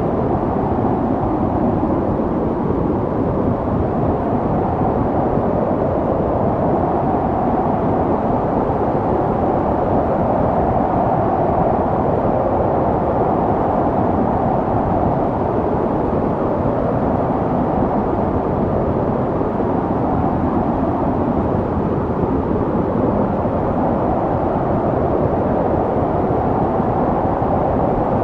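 Snowstorm wind blowing steadily and strongly, a deep even rush that slowly swells and eases without a break.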